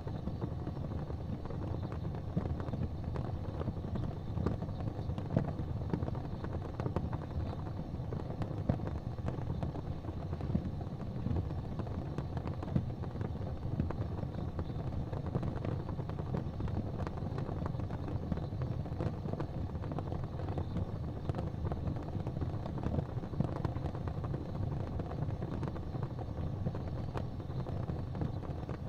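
Wood fire crackling in a fireplace: a steady low rumble of burning with scattered small pops and snaps.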